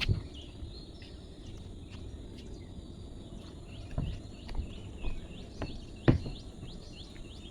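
Birds chirping outdoors in a run of short, quick, falling notes that repeat more often in the second half. A few dull low thumps stand out, the loudest about six seconds in.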